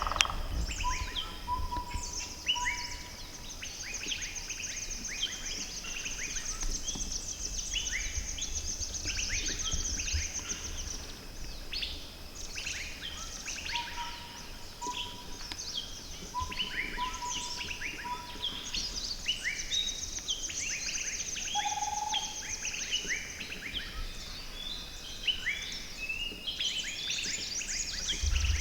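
Several forest birds calling together, a dense chorus of short chirps and whistles. A high, fast trill comes and goes over it, and a run of lower whistled notes sounds a second in and again midway.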